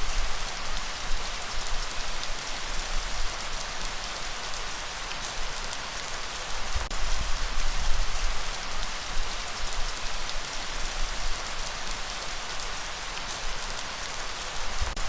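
Steady rain falling: an even hiss with many small drop impacts, over a low, uneven rumble.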